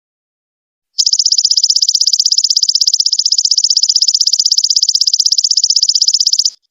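Golden locust (belalang emas) stridulating: a loud, high, rapidly pulsed buzz of about fifteen even pulses a second. It starts about a second in after a pause and cuts off sharply near the end.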